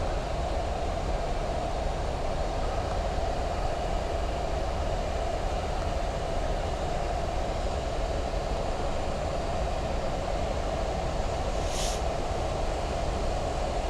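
Steady flight-deck noise of a Boeing 737 MAX 8 in flight: a constant low rumble with a steady hum and airflow hiss over it. There is a brief faint hiss about twelve seconds in.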